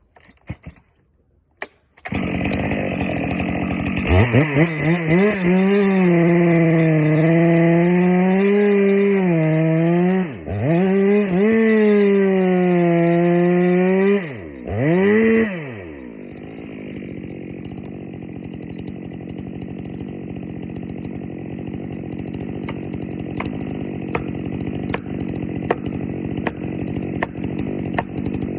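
Chainsaw engine at full throttle cutting into a tree, its pitch sagging and recovering under load, let off briefly twice. It then drops to a lower, steadier sound with light ticks.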